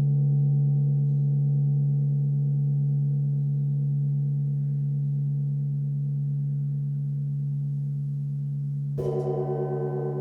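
A gong's low tone rings on and fades slowly, then the gong is struck again near the end, starting a fresh tone with a wavering shimmer.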